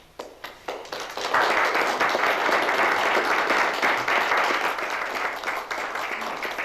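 Audience applauding. A few scattered claps swell into full, steady applause about a second in, then thin out near the end.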